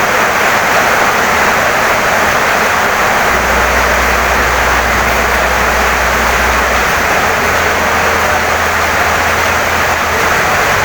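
Heavy rain pouring steadily on a wooden house, an even, dense hiss with a low steady rumble underneath.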